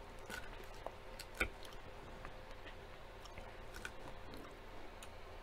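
A person chewing and biting into a salad of lettuce and tortilla chips: a run of small crackles and mouth sounds, with one sharp click about a second and a half in.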